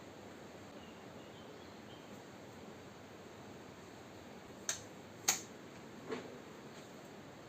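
Faint steady hiss with three sharp clicks or knocks in the second half, the middle one the loudest.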